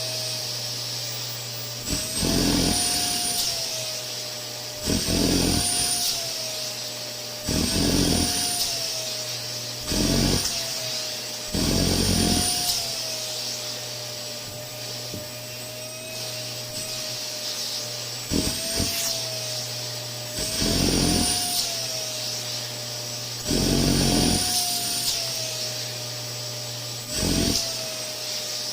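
Canister vacuum cleaner running steadily with a high motor whine. About every two to three seconds a swell of rubbing noise comes in and the whine rises slightly in pitch, then settles back.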